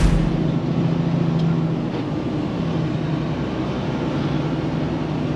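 Semi-truck cruising on the highway, heard from inside the cab: a steady engine drone over road noise, with a low thump right at the start.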